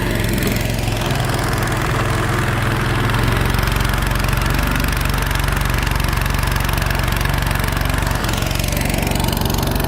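A machine running steadily with a low, even engine-like drone.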